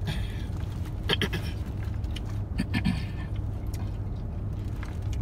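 Steady low hum inside a car's cabin, from the idling engine and running air conditioning, with scattered small clicks and rustles of people eating burgers.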